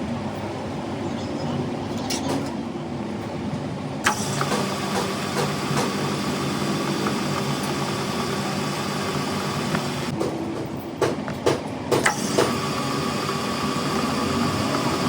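Workshop machinery running steadily with a continuous whine. The sound changes abruptly about four seconds in, and a few sharp metal knocks come near the end.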